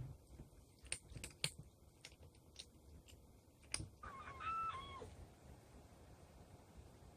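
A cat gives one meow about four seconds in, lasting about a second and dropping in pitch at the end. It is preceded by a few light clicks and taps.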